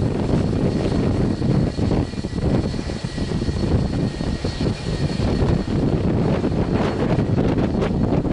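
Airbus A320 jet engines running with a heavy rumble and a faint high whine, mixed with wind buffeting the microphone.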